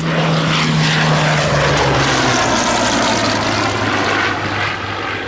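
Hawker Sea Hurricane Mk.1b's Rolls-Royce Merlin V12 engine on a loud, close flypast, the engine note dropping in pitch about two seconds in as the aircraft goes by.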